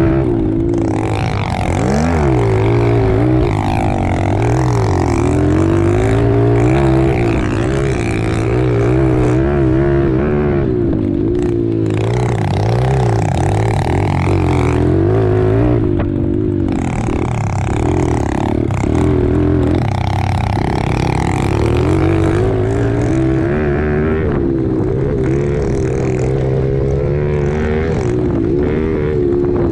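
110cc four-stroke single-cylinder pit bike engine being ridden hard, its pitch rising and falling again and again with the throttle and gear changes.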